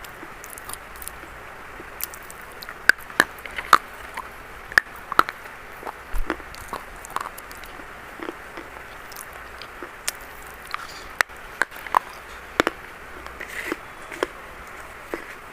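Reddish-brown chalk crunching: irregular sharp crunches and crackles, many of them, over a steady hiss.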